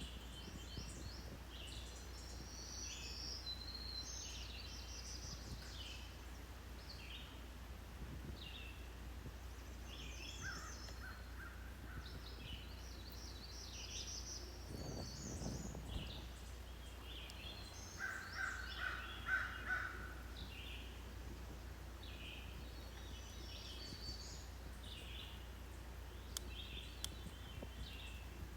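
Songbirds chirping on and off over a steady low rumble, with a louder, lower-pitched run of calls about two-thirds of the way through.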